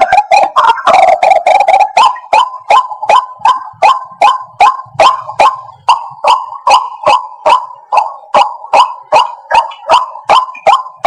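White-breasted waterhen calling: at first a dense run of overlapping calls, then from about two seconds in a steady series of sharp, repeated notes, roughly two to three a second.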